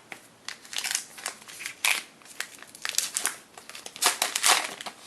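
Plastic wrapper of a trading-card pack crinkling in the hands as it is being opened, in irregular crackly bursts, loudest about four seconds in.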